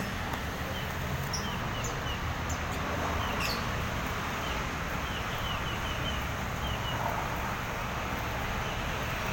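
Small birds chirping with short, high chirps, many times, over a steady background rush.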